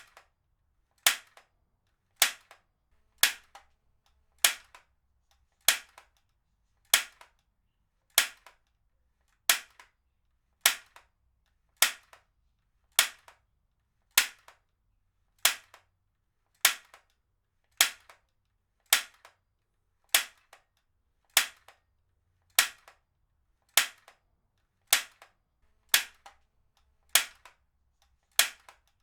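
Heavy-duty stapler firing staples in a steady rhythm: a sharp snap about every 1.2 seconds, each with a fainter click just after it.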